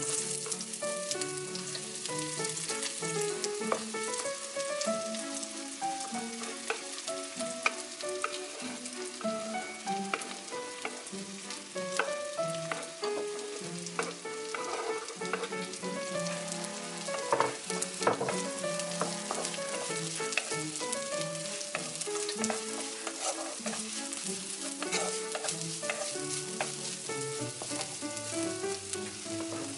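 Sliced shallots and garlic sizzling in hot oil in a nonstick wok, with the wooden spatula clicking and scraping against the pan as they are stirred until wilted.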